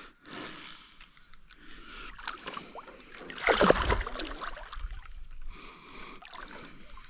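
Water splashing and sloshing as a big hooked carp thrashes at the surface while being fought, loudest about three and a half seconds in.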